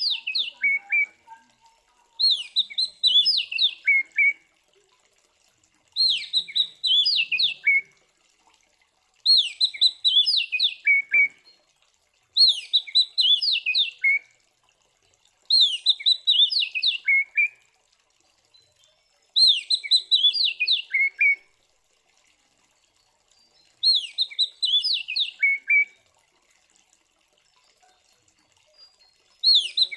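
Oriental magpie-robin (kacer) in loud fighting song, repeating the same short phrase nine times, each about two seconds long with a gap of a second or so between. Each phrase is a quick run of clear whistled notes that ends in notes dropping lower in pitch.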